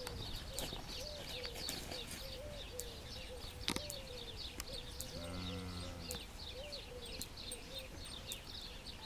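Birds calling outdoors: a short arched call repeated about twice a second over a thin, busy run of high chirps. A brief low hum comes about five seconds in.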